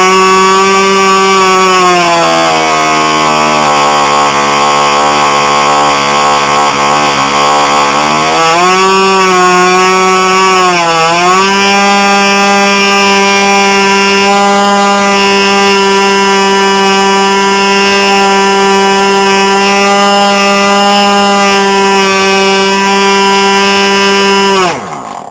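Magnum GP .40 two-stroke glow model-aircraft engine running at high revs through a homemade aluminium tuned resonance pipe, with a steady high-pitched note. Its revs sag about two seconds in, climb back around eight to nine seconds, dip briefly again, then hold steady until the engine stops near the end, its pitch dropping away quickly.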